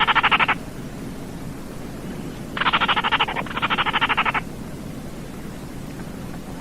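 Baillon's crake giving its dry rattling call, a rapid string of clicks under a second long: one rattle ends about half a second in, then two more follow back to back from about two and a half seconds. A steady hiss lies beneath.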